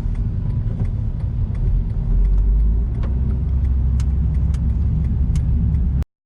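Car cabin road noise while driving on an expressway: a steady low rumble of tyres and engine. Irregular sharp ticks run through it, typical of typhoon rain hitting the car. It cuts off abruptly about six seconds in.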